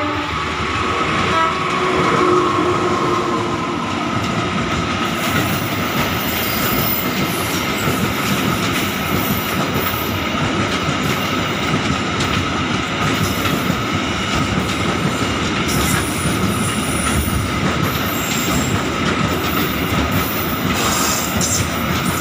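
Container freight train rolling past at close range: a steady, loud rumble of wagons over the rails with a clicking rhythm from the wheels and a thin, steady high wheel squeal. The tail of the locomotive's horn blast fades out in the first couple of seconds.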